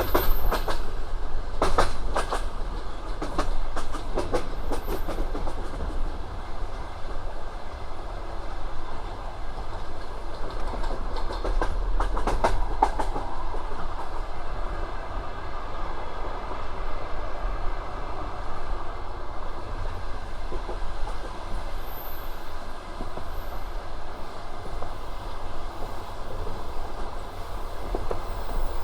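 Passenger train carriage running over the rails: a steady low rumble with the clickety-clack of wheels over rail joints, the clicks bunched in the first few seconds and again about 12 seconds in.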